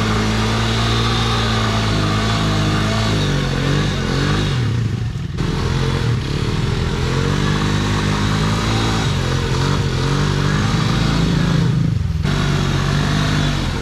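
Dirt bike engines revving, the pitch rising and falling repeatedly as the throttle is worked.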